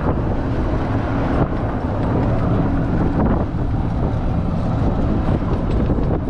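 Strong gusting wind buffeting the microphone: a loud, steady low rumble with no breaks.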